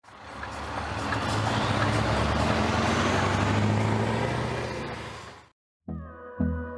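Scania S500 truck running, a steady low engine note with road and air noise that swells in and then fades away. Electronic music with a beat starts just before the end.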